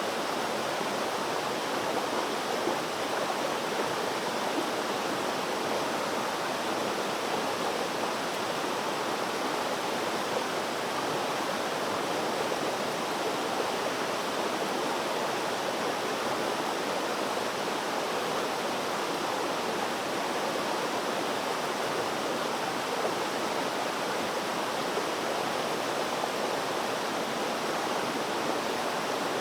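Water flowing steadily, a continuous even rush like a stream or small cascade, with no breaks or splashes standing out.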